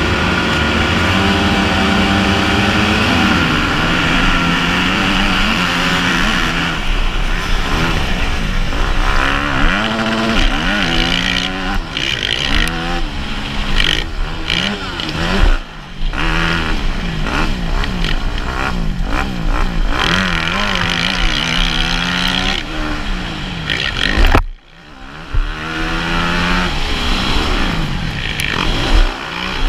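Motocross bike engine revving up and down repeatedly as it rides the course, under a loud rush of wind noise. The engine cuts out sharply for about a second about three-quarters of the way through, then picks up again.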